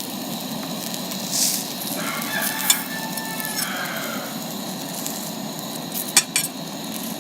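Breaded chicken pieces frying and sizzling steadily in a pan over a propane burner. A few sharp clicks of a utensil against the pan come about halfway through and again near the end, as the pieces are flipped.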